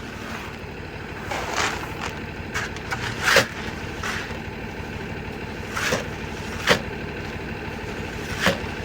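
A machine running steadily underneath a series of sharp, irregular scrapes and knocks, the loudest about three and a half seconds and six and a half seconds in.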